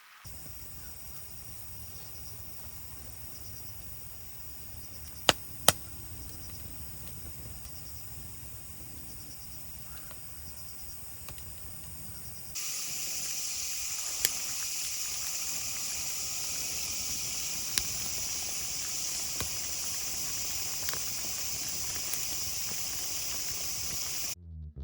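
Steady high-pitched drone of insects, with a low rumble under it; it becomes markedly louder after a cut about halfway through. Two sharp clicks come about five seconds in.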